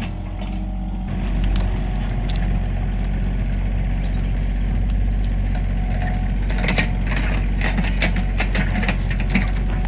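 An engine running steadily at a constant low pitch, with irregular clattering and rattling over it.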